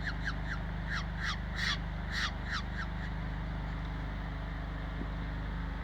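A wild bird calling in a quick run of about ten short, falling calls over the first three seconds, then stopping, over a steady low hum.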